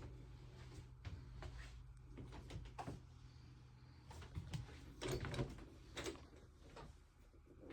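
Scattered knocks and clicks, the loudest cluster about five seconds in, over a steady low hum.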